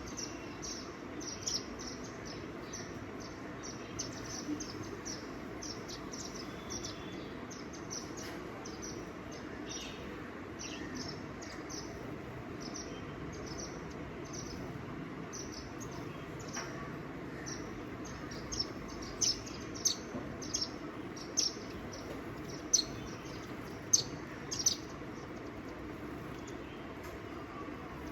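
Small birds chirping: many short, high chirps repeated throughout, with several louder single chirps in the second half, over a steady outdoor background hiss.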